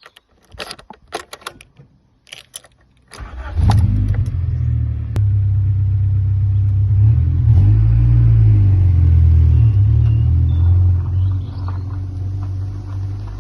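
A few clicks and knocks, then about three seconds in the 1991 Rover 216 GTI's engine starts and runs on steadily.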